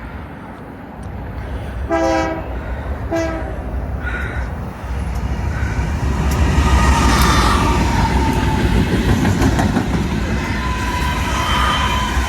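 Diesel locomotive air horn on a BNSF GE C44-9W sounds two short blasts about two and three seconds in. The train's locomotives and wheels then rumble past with a rail clatter, growing louder about halfway through.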